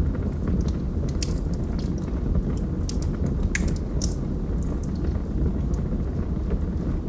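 Wood fire burning in a fireplace: a steady low rumble of flames with scattered sharp crackles and pops from the logs, one louder pop about halfway through.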